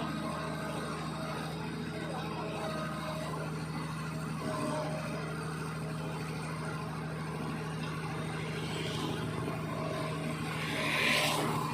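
Heavy construction equipment's engine running steadily with a constant hum, and a brief hiss near the end.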